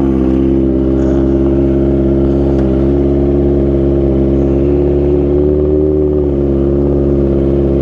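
Kawasaki ZX25R's inline-four engine idling through an Arrow Pro Race exhaust with a Radamel Racing header, being warmed up from cold. It is a loud, steady, thundering note, with a slight lift in revs about five seconds in before it settles back.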